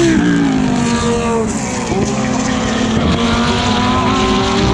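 GT3 race car engine heard from onboard, the revs dropping sharply under braking and downshifts near the start, then rising steadily as the car accelerates out of the corner.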